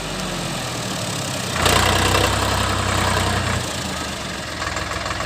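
Sonalika Sikander DI 50 RX tractor's diesel engine running, picking up speed about one and a half seconds in and easing back down about two seconds later.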